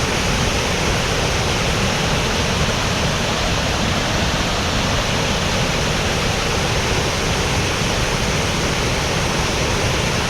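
Waterfall of about 33 feet, running high after a wet winter: a loud, steady rush of falling water close by.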